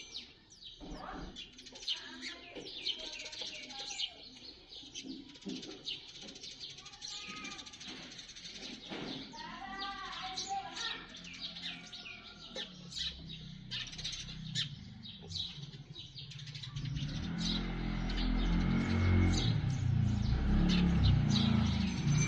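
Sparrows fighting, giving many short, rapid chirps. About three-quarters of the way through, a low rumbling noise comes in and becomes the loudest sound.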